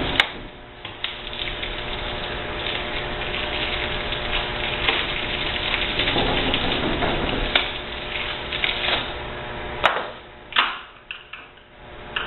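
Dishwasher parts and hand tools being worked during disassembly: a dense run of small clicks and rattles, with a sharp click just after the start and another about ten seconds in.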